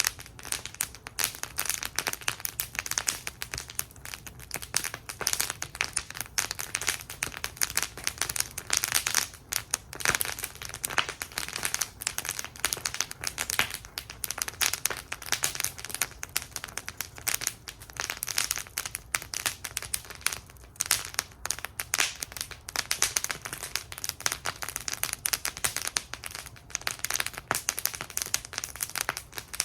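Wood fire burning in a metal fire bowl, crackling steadily with many small irregular pops and snaps.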